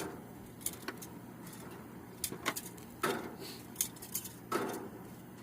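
Several short, sharp clicks and knocks scattered irregularly, as of hard objects being handled and set down.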